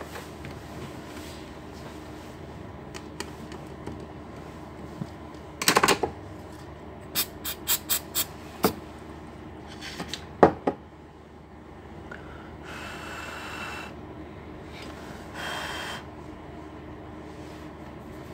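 Hands working on an open laptop's plastic casing and hinge: a cluster of sharp clicks and taps, a quick run of clicks, a single knock, then two short rasping noises.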